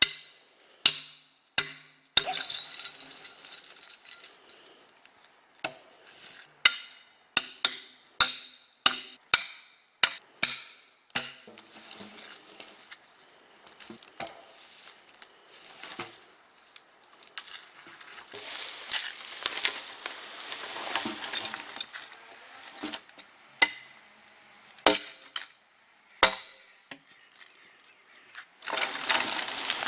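A long irregular series of sharp knocks and clinks, each ringing briefly.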